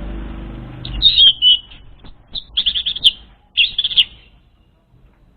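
Orange-headed thrush song used as a lure: several short, rapid, high trilled phrases, with a low rumble under the first second.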